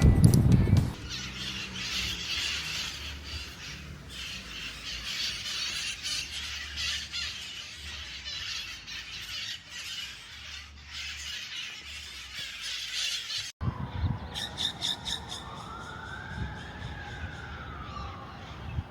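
A flock of wild parrots, San Francisco's red-masked (cherry-headed) conures, screeching and squawking together in a dense, continuous chatter. After a sudden cut near the end comes a different scene with a slow tone that rises and then falls.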